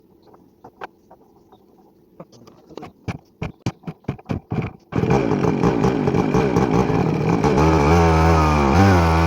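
A run of sharp knocks, then a motorcycle engine catches abruptly about five seconds in and keeps running loudly, its pitch rising and falling in waves near the end.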